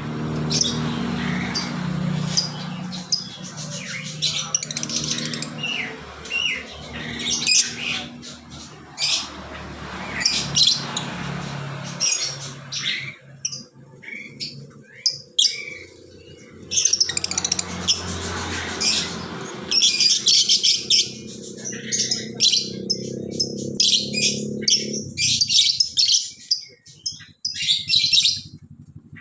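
Budgerigars chirping and chattering in quick, busy strings of short squeaky notes, over a low steady hum that fades out about 25 seconds in.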